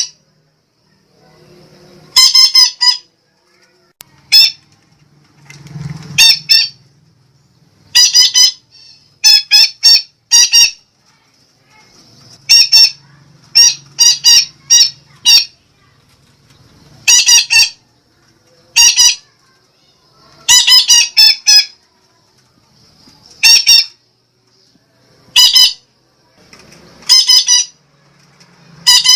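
Sumatran red-breasted parakeet (betet) giving loud, high-pitched calls in quick clusters of two to five notes, repeating every one to two seconds: a lure call (pemikat) used to draw in or train betet.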